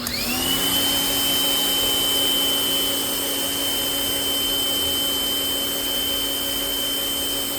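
Portland electric pressure washer's motor and pump starting up as the trigger is pulled, its whine rising over the first half second and then running steadily, with water spraying through a 40-degree fan nozzle.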